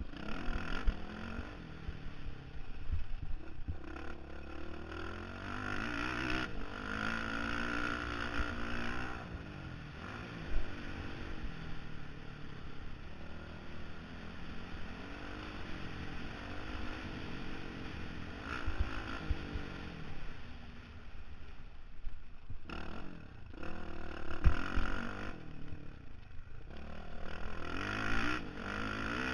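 Honda CRF450R dirt bike's single-cylinder four-stroke engine, heard from the rider's helmet, revving up and easing off again and again through a motocross lap. Rushing wind noise runs under it, with a few sharp knocks.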